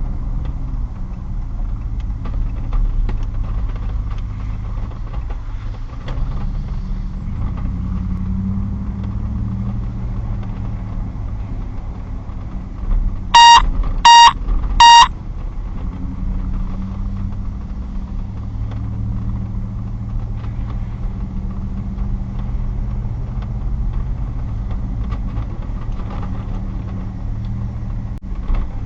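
Steady running of a motor vehicle's engine. About halfway through come three short, loud electronic beeps in quick succession.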